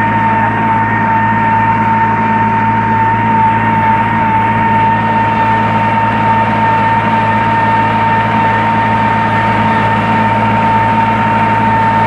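47 RX tractor's diesel engine running steadily under load while pulling a cultivator, with a steady high whine over the engine note.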